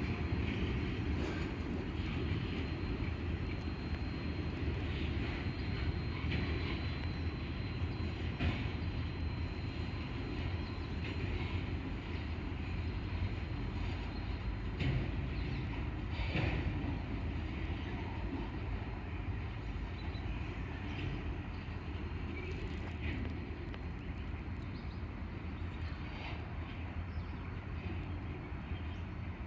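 Freight train rolling past: a steady rumble of wheels on rail with scattered clicks, easing off slightly over the last several seconds.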